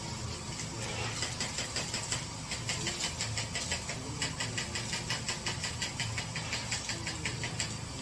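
A machine running with a low hum and a fast, even ticking of about five or six ticks a second, which starts about a second in and stops shortly before the end.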